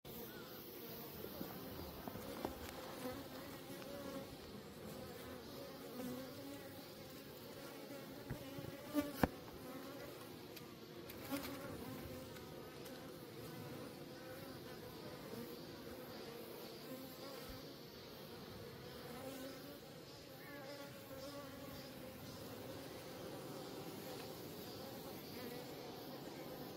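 A wild colony of Korean native honeybees (Asian honeybees) buzzing steadily, many bees at once, with a sharp click about nine seconds in.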